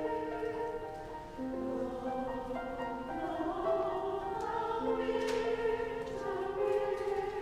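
Mixed choir singing in sustained, slowly moving chords.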